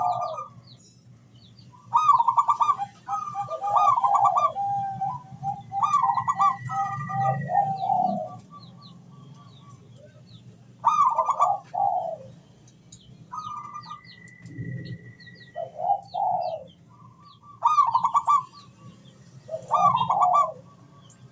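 Local Javanese zebra dove (perkutut) cooing in repeated phrases with short pauses between them, the loud rolling song kept as a lure to set other perkutut calling. Faint chirps of other small birds and a held high whistle come between some phrases.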